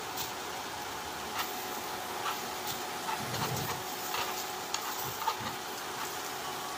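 Maruya (banana fritters) frying in shallow oil in a nonstick pan, a steady sizzle, with a few clicks and scrapes of a metal spoon against the pan as the fritters are pushed and turned.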